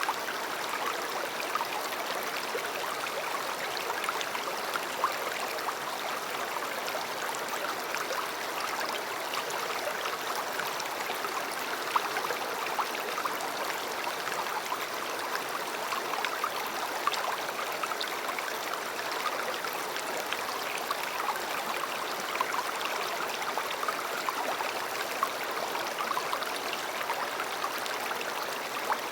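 A river's water flowing steadily, a continuous rushing babble with frequent small splashes and trickles.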